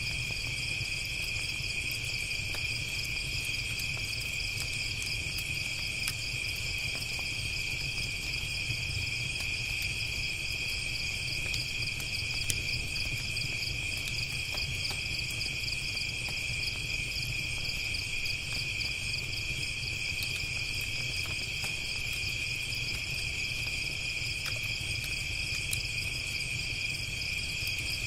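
Steady, unbroken chorus of chirping crickets, with a low rumble beneath and faint, scattered crackles of a campfire.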